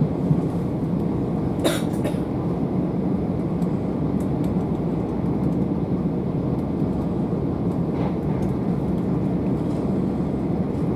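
Steady running noise heard from inside a Southeastern Class 375 electric multiple unit travelling at speed: an even, low rumble of the wheels on the rails.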